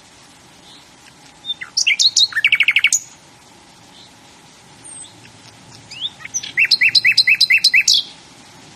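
A songbird singing two phrases about four seconds apart. Each is a quick run of varied notes ending in a fast series of repeated notes.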